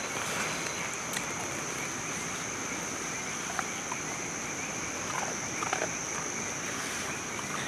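Steady outdoor ambience: an even hiss under a continuous high-pitched drone, with a few faint light clicks scattered through it.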